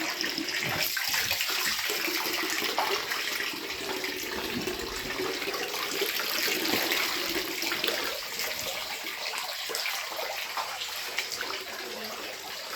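Water pouring and splashing steadily, like a tub filling, in a basement flooded about two inches deep.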